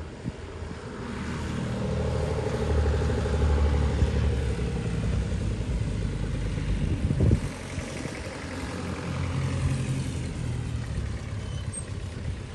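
Tractor engines driving past on the road: one grows louder and fades away, then another passes a little more quietly. A brief sharp knock comes about halfway through.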